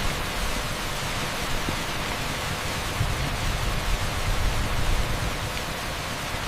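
Torrential rain pouring onto an asphalt street: a steady, dense hiss with no separate drops standing out.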